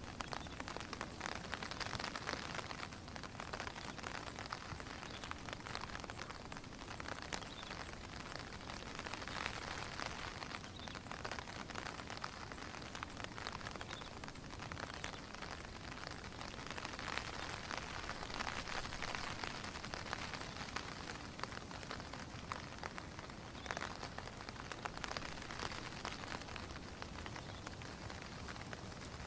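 Steady rain falling, a dense patter of drops that swells and eases every few seconds.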